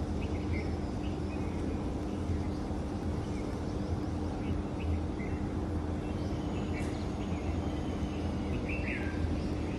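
Birds chirping now and then, short calls scattered over a steady low hum.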